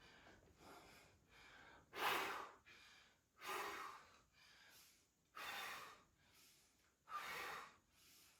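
A woman taking deep, audible breaths during a workout: four loud breaths spaced about every two seconds, with fainter breaths between.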